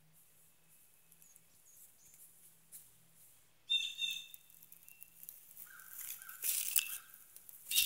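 A bird calling: a sudden sharp high call nearly four seconds in, then a few more calls, with a short noisy scuffle near the end.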